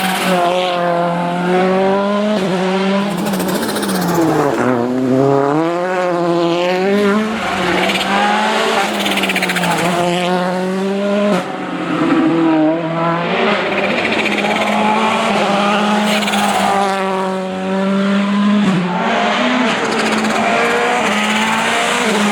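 Volkswagen Polo R WRC rally car's turbocharged four-cylinder engine run hard and held at high revs, its note wavering, dropping briefly about four seconds in and climbing back, with tyres squealing on the tarmac.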